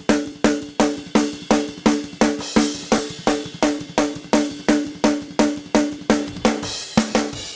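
Multitrack recording of a drum kit played back in a mix: a steady beat of about three hits a second, with snare, kick drum and cymbals. It is being checked for a phasing issue between the drum microphones, which the engineer suspects lies in the overheads.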